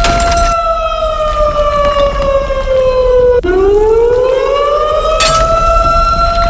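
Earthquake drill alarm siren wailing on a steady tone. Its pitch slides down for about three seconds, drops sharply, then climbs back to the steady tone. Short rushes of noise come at the start and about five seconds in.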